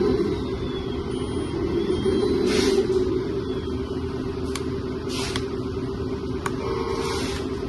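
Kabolite 1/14-scale 6x6 RC tractor truck running, a steady low drone with a few short hissing bursts.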